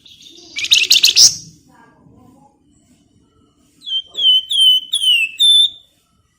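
Flamboyan songbird singing: a loud, rapid scratchy chatter about a second in, then a run of five short whistled notes that each slide down in pitch, ending abruptly.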